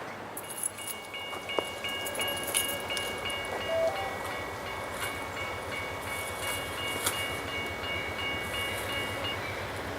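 Railroad grade-crossing bell ringing rapidly, about four strokes a second, stopping shortly before the end, over the rumble of a passing train.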